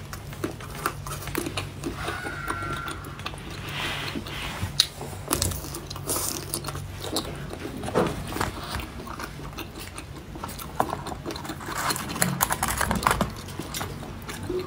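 Close-up eating sounds of a person biting into and chewing a pink-coated strawberry: irregular wet mouth clicks and smacks.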